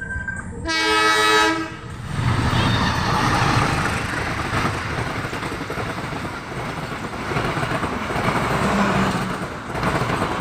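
Train horn sounding one steady blast of about a second, followed by the loud rumble and clatter of a train passing close by.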